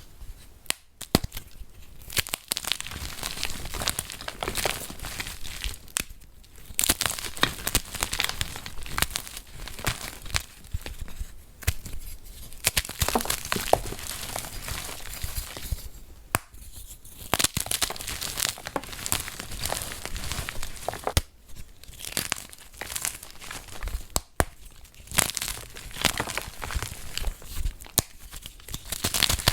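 Flaky, layered gym chalk being crushed: a dense, sandy crunching and crackling, broken by short pauses every few seconds.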